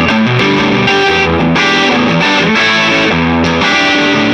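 Gibson ES-335 electric guitar playing a rock and roll riff, its notes and chords repeating in a steady rhythmic pattern.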